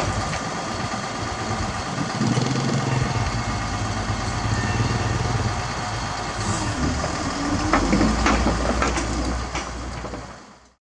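Heavy diesel engine of the truck or crane running steadily at low revs, with a few knocks about eight seconds in; the sound fades out near the end.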